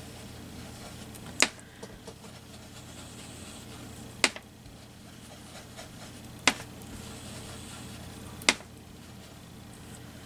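Four sharp, light taps spaced about two seconds apart, over a faint steady hum.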